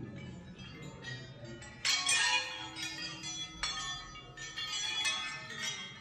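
Steel hammers knocking against one another and ringing, a shimmer of many overlapping bell-like tones. The loudest strike comes about two seconds in, with a sharp one a little before the middle and lighter clinks after.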